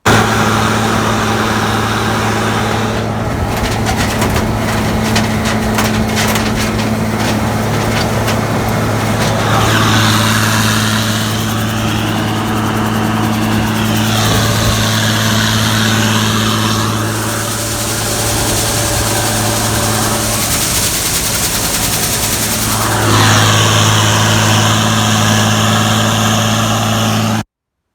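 Gleaner combine running steadily: a constant engine hum under a loud rushing noise, with a rough crackling stretch a few seconds in.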